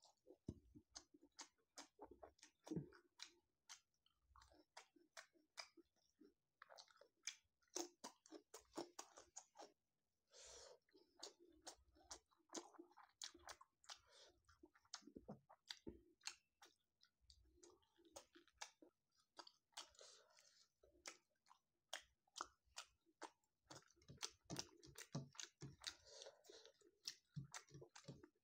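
Faint close-up chewing of food, a dense, irregular run of short mouth clicks and smacks.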